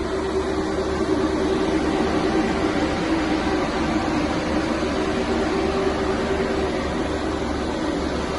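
Steady mechanical running hum from a Renault Master refrigerated van, with a constant low drone and a steadier, higher hum over it.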